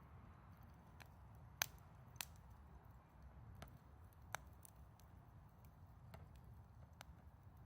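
Wood fire crackling: scattered sharp pops, the loudest about a second and a half in and again just after two seconds, over a faint low rumble.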